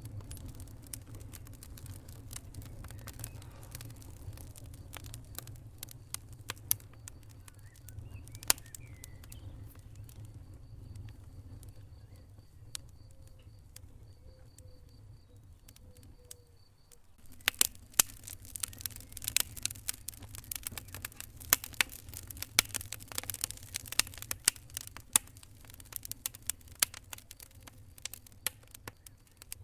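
Wood fire in a fireplace crackling, with sharp pops over a low steady rumble. The crackling thins out for a few seconds past the middle, then comes back thicker and louder.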